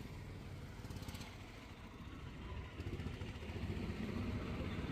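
Low rumble of road traffic: a motor vehicle running, growing somewhat louder over the last two seconds.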